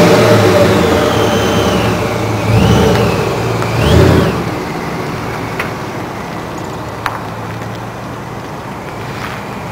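Ford F-150's 5.4-litre V8 through a Gibson split rear exhaust. It drops back from a rev, is blipped briefly twice (about two and a half and four seconds in), then settles to a steady idle.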